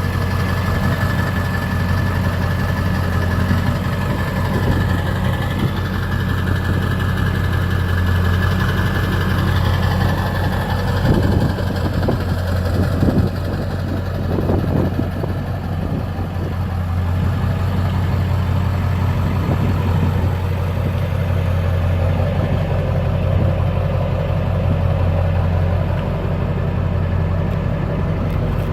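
Ford 7.3 Powerstroke V8 turbo diesel idling steadily, with a few short knocks about a third of the way through.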